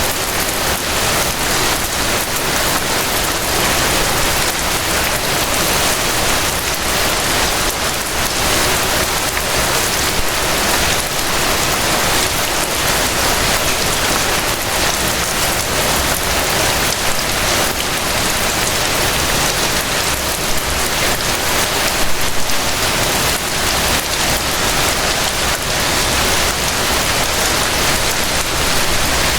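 Gentle rain falling steadily, an even hiss of many small drops.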